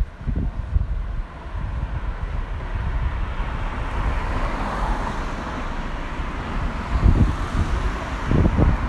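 A car passing on the street, its tyre and engine noise swelling to a peak about halfway through and then easing off, with wind buffeting the microphone at the start and again near the end.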